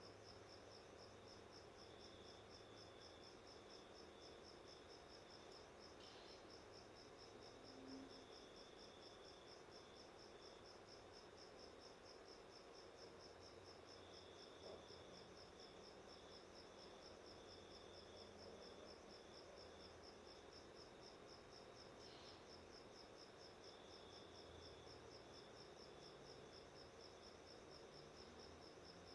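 Faint, steady high-pitched chirping that pulses evenly a few times a second, like an insect such as a cricket, over a low background hum. No budgie calls are heard.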